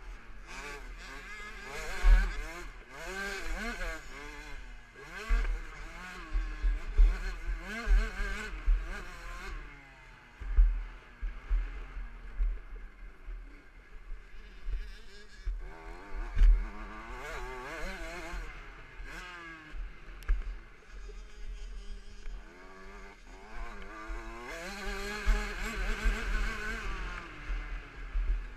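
A KTM 65 SX's 65cc two-stroke single-cylinder engine revving up and down again and again as the bike is ridden around a motocross track, with repeated low thumps and wind buffeting.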